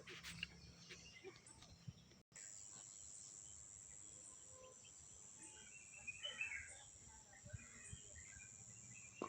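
Faint outdoor nature ambience: a steady high-pitched insect drone with scattered faint bird chirps. The sound cuts out completely for a moment about two seconds in.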